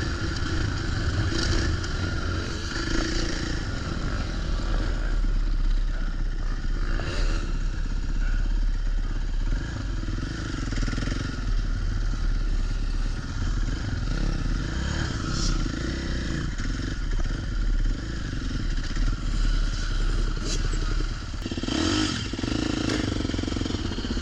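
Dirt bike engine running as the bike is ridden, its engine note shifting up and down, with some clatter.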